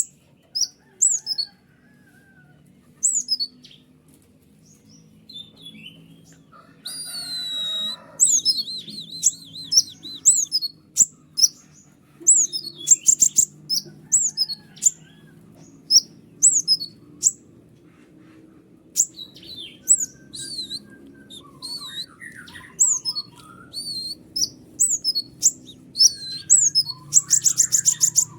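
A konin songbird singing: a run of sharp, high, down-slurred chirps, broken by a fast warbling trill about a quarter of the way in and quick rattling runs midway and near the end. A faint low hum lies underneath.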